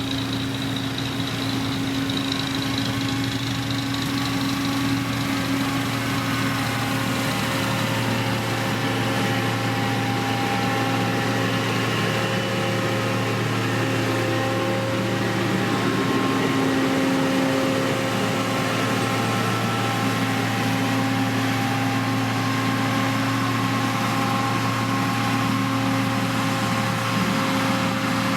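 Diesel engine of a heavy road-building machine running steadily at a constant speed, with a low steady hum and faint higher tones that shift slightly.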